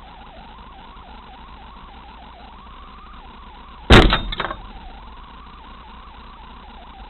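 Vehicle collision heard from inside a car: a sudden loud crash about four seconds in, followed by a smaller second bang about half a second later, over steady cabin and road noise.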